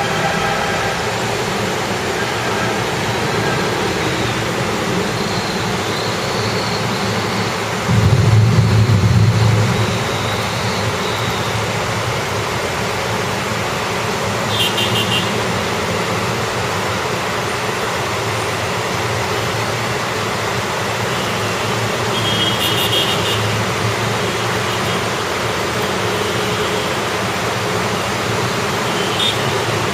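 Rain and wet-road traffic: a steady hiss of rain and tyres with vehicle engines under it. About eight seconds in a louder low rumble lasts around two seconds, and a few short high-pitched tones (horn beeps or brake squeals) come later.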